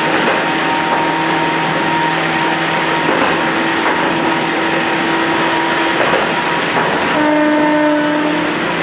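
Toyama Chiho Railway 14760 series electric train running along the track, with steady rolling noise and a steady whine. Near the end a single horn note sounds for about a second and a half.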